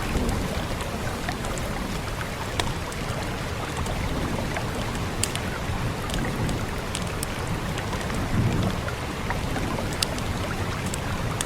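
Steady rain hiss with scattered sharp crackles and pops from a wood fire. A low rumble swells up briefly at the start and again about eight seconds in.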